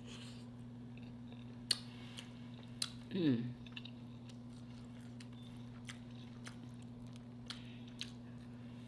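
Close-miked chewing and mouth smacks while eating red snapper, with scattered sharp clicks. About three seconds in there is a short falling "mm" of enjoyment. A steady low hum runs underneath.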